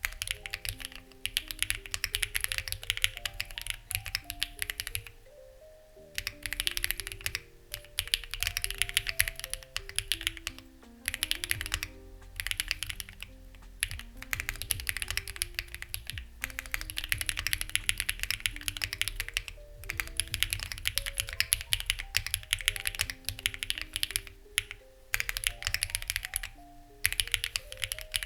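Typing on a Lucky65 v2 mechanical keyboard with stock, unlubricated HMX Ziwei switches and CMK-style keycaps. Dense runs of key clacks are broken by short pauses, the longest about five seconds in.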